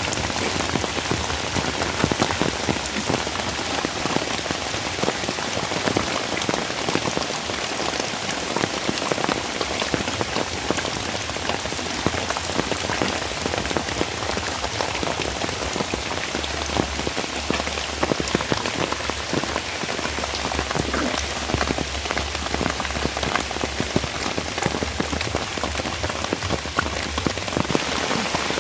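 Steady rain falling, a dense, even patter of countless drops hitting surfaces.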